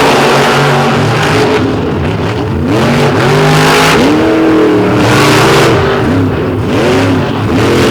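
Two monster truck engines revving hard while racing side by side. Their pitch climbs and drops again and again as the throttles are worked.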